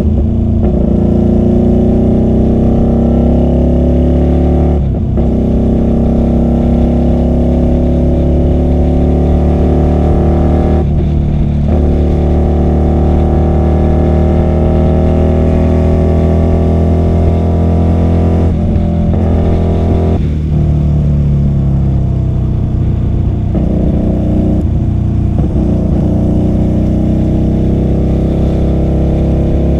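QJMotor SRV250 V-twin motorcycle engine with a custom two-into-one exhaust, pulling through the gears. The note climbs steadily, then cuts off briefly at gear changes about 5, 11 and 18 seconds in, and settles to a steadier, lower drone in the last third.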